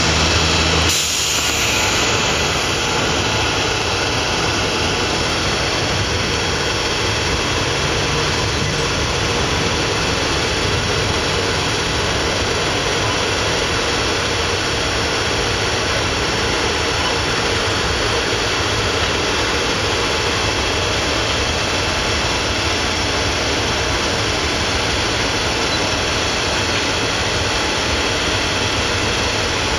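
Freight train running past, a steady loud rolling noise of wheels on rails with a faint hum of steady tones.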